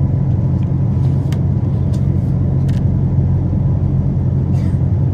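Steady low rumble of cabin noise inside a Boeing 777 airliner, with a few faint clicks.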